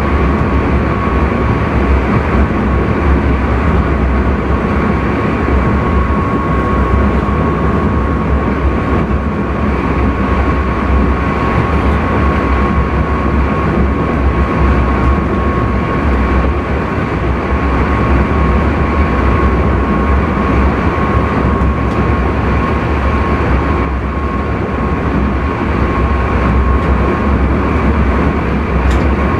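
Intercity train running at speed, heard from inside the driver's cab: a steady low rumble with a thin steady whine that fades out near the end.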